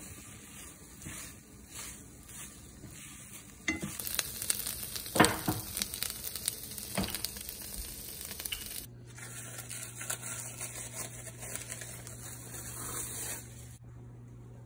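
Cubes of chicken frying in a nonstick pan, sizzling while a spatula stirs them. The sizzle grows much louder about four seconds in and stops shortly before the end.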